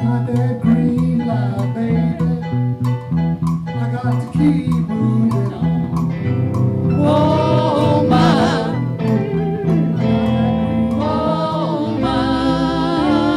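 Live band music: electric guitar and bass guitar over a steady drum beat. About halfway through, a wordless vocal with vibrato comes in over the band.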